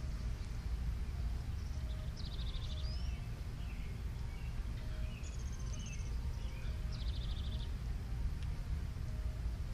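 Songbirds singing and calling: short rapid trills about two seconds in and again about seven seconds in, a high whistled note around five seconds, and scattered chirps, over a steady low rumble.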